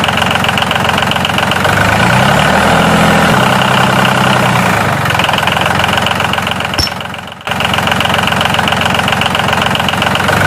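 A motor running steadily with a dense, engine-like drone. The sound dips briefly about seven seconds in and then cuts back in sharply.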